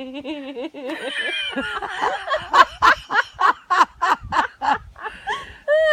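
A woman's voice imitating a seagull's call: a wavering cry, then a quick run of short, high, laugh-like yelps.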